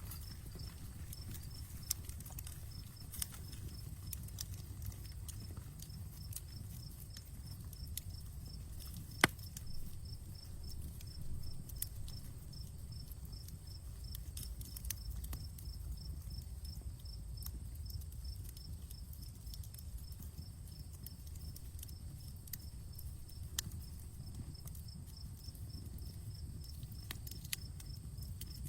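Outdoor wood campfire crackling: scattered sharp snaps and pops over a low steady rumble, with one loud pop about nine seconds in. An insect chirps steadily in a fast even pulse throughout.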